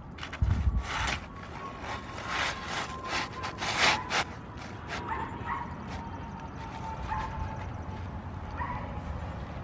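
Scraping and rubbing of a roofing tool working against asphalt shingles, several strokes in the first half. A dog barks faintly a few times in the second half.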